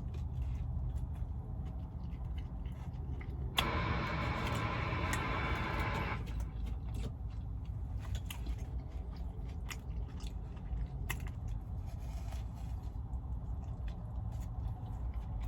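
Close-up chewing and biting into a fast-food burger, with many small wet mouth clicks, over a steady low rumble. About three and a half seconds in, a louder rushing noise starts suddenly, lasts about two and a half seconds and cuts off.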